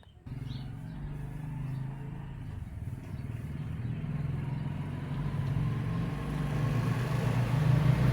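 A motor running with a steady low hum that starts suddenly and grows gradually louder throughout, with a faint slowly rising tone and increasing hiss above it.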